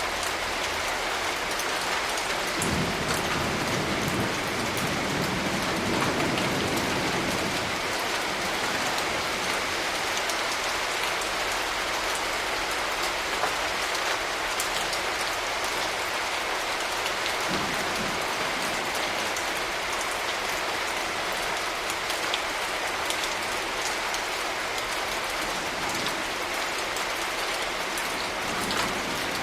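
Steady rain falling with scattered drop patters, and a low rumble of thunder swelling and fading a few seconds in.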